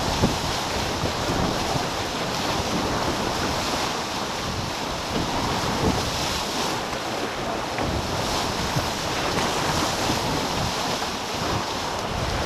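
Wind buffeting the microphone and water rushing past the hulls of a racing catamaran under sail, a steady rushing noise with no breaks.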